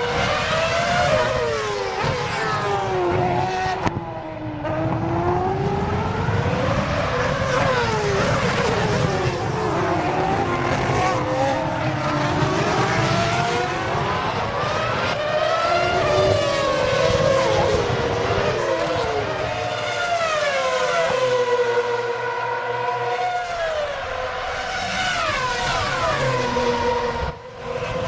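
2007 Formula One cars' 2.4-litre V8 engines at racing speed, the pitch climbing through the gears and falling in long sweeps on downshifts into braking zones, over and over.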